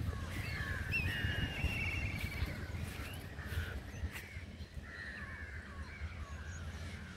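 Several birds calling outdoors: short chirps, hooked whistled notes and buzzy trills, busiest in the first few seconds, over a steady low rumble.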